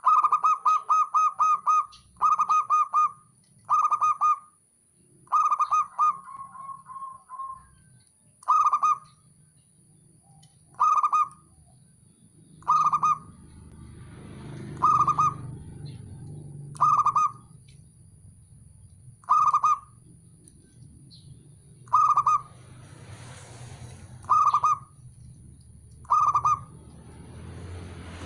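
Zebra dove (perkutut) cooing: a few quick runs of rapid staccato notes at the start, then single short coos about every two seconds. A faint low hum sits underneath in the second half.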